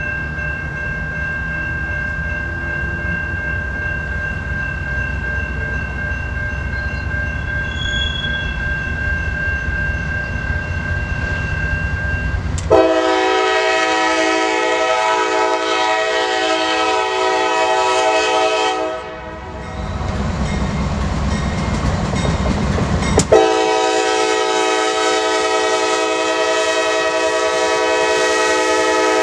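Diesel freight locomotive running with a low rumble and a thin steady whine, then its air horn sounds a long blast about 13 seconds in and a second long blast about 23 seconds in.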